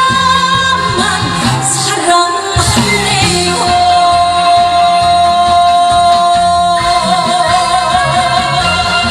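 Live trot song with a female voice over a backing band track, building to its close with a long held note in the middle.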